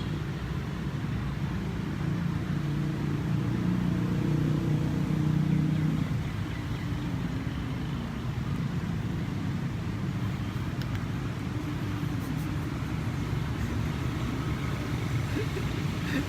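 Steady low rumble of road traffic, swelling louder about four to six seconds in.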